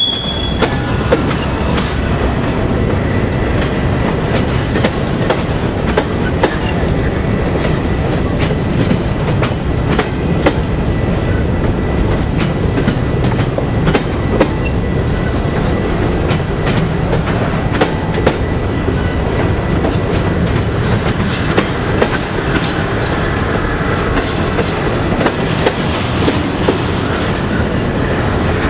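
Double-stack container well cars of a freight train rolling past close by: a steady rumble of steel wheels on rail, with irregular clicks and clacks over the rail joints. A brief high squeal comes right at the start.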